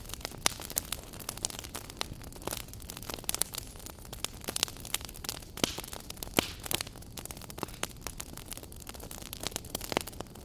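Wood fire burning in a fireplace, crackling with irregular sharp pops over a steady low rush of flame.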